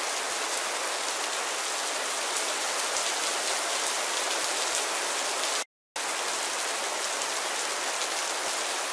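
Steady rain falling, drops pattering and splashing into standing water as an even hiss. It cuts out completely for a moment about six seconds in, then resumes unchanged.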